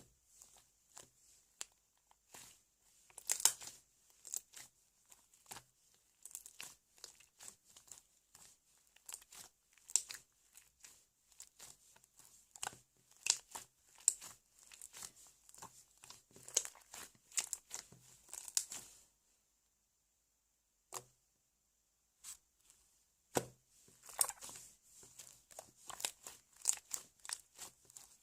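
Slime being worked by hand: quick runs of sticky clicks and crackles as it is squeezed, folded and pulled apart, stopping for a few seconds past the middle before starting again.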